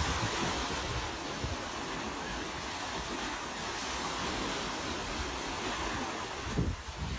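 Ocean surf washing steadily onto a beach, a continuous hiss of water with wind rumbling on the microphone.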